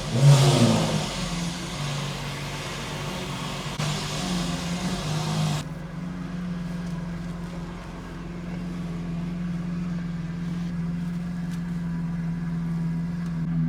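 Lamborghini V12 engine blipping up and falling back at the start, then running at a steady low drone. About five seconds in, the higher part of the sound cuts off suddenly, leaving a steady low hum.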